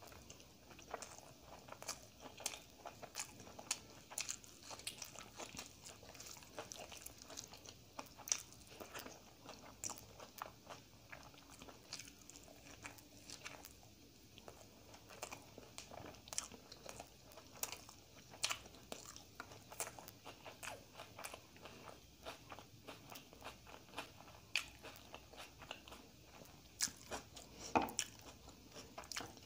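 A person chewing and crunching food by mouth, with many sharp, wet mouth clicks throughout. The food is dal and rice eaten by hand, with mirchi bajji (batter-fried chilli fritters).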